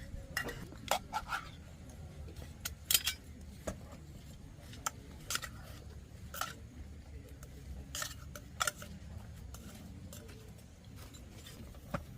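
Utensils clinking and scraping against dishes during a meal: a scattered series of sharp, irregular clicks over a low steady rumble.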